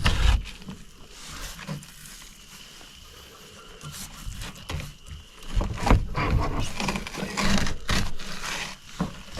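Fillet knife working the skin off a walleye fillet: irregular scraping and rustling with short handling knocks, busiest about six seconds in.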